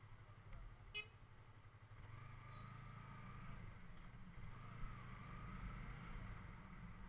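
Sport motorcycle's engine running at low speed in town traffic, a steady low hum with a faint whine that rises and falls in the middle. A very short high beep sounds about a second in.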